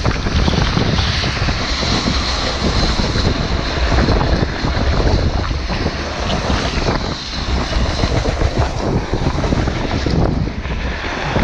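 Blizzard wind blowing hard across a GoPro's microphone: a loud, continuous rush with heavy low buffeting that comes and goes in gusts.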